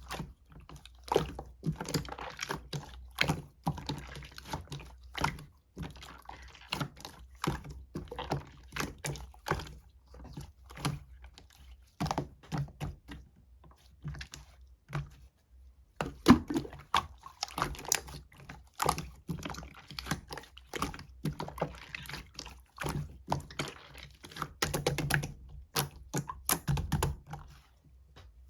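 Irregular light taps and clicks, close together, with a pause of about two seconds roughly halfway through.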